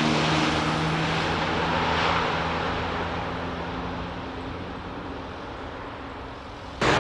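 Jet airliner passing close and moving away: a loud, steady engine noise with a low hum that slowly fades over several seconds. Near the end it cuts abruptly to a louder burst of the same kind of noise.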